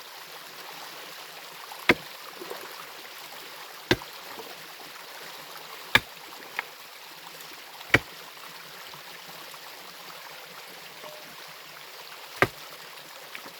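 Pickaxe point striking the stone bedrock of a mountain stream: five sharp blows, the first four about two seconds apart and the last after a longer pause, over the steady rush of the stream.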